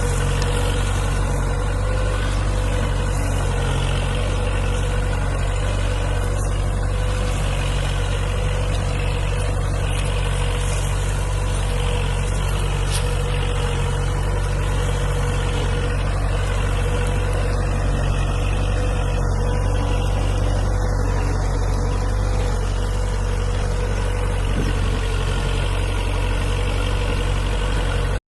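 Kubota tractor's diesel engine idling steadily at an even speed, with a steady whine above the low engine note.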